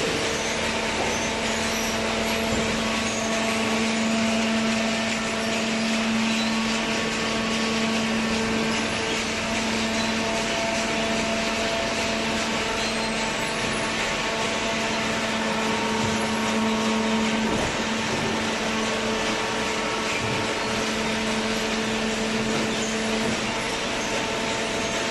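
Hydraulic cardboard baler running: its electric motor and hydraulic pump give a steady hum with several constant tones over a hiss.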